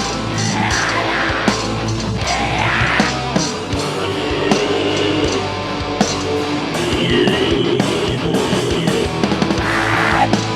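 A heavy metal band playing live: distorted electric guitars and a drum kit, with drum hits sounding all through.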